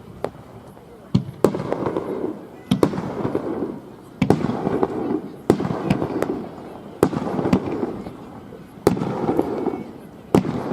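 Aerial fireworks shells bursting in a display: about eight sharp bangs, one every second or so, each trailing off over about a second.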